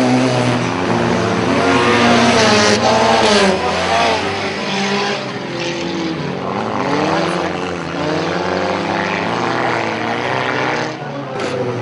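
Several car engines running and revving together, their pitches rising and falling over one another, in a demolition derby.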